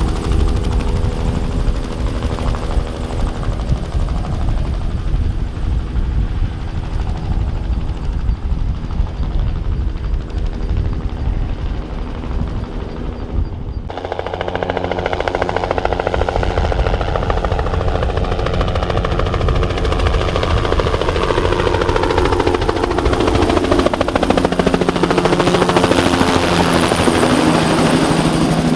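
Bell 206B-3 JetRanger III helicopter, with its Allison 250 turboshaft and two-blade rotor, flying low on crop-spraying passes: a loud, steady rotor beat and turbine sound. About halfway through, the sound changes abruptly. After that, the pitch slides down and then rises as the helicopter passes by and turns.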